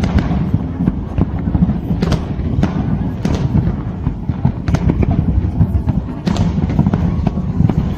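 Fireworks display: a continuous low rumble of bursts with sharp bangs cracking out about once a second.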